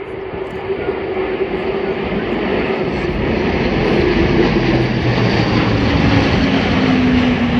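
A formation of three Airbus A400M four-engine turboprop transports flying past low. The propeller drone grows louder, and its tone drops in pitch in the second half as they pass.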